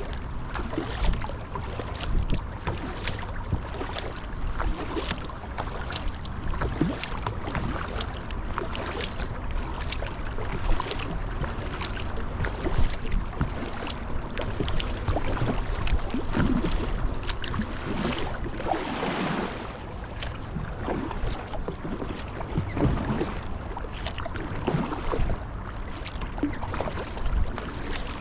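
Kayak paddle strokes in the water, a regular series of short splashes and drips, over a low wind rumble on the microphone.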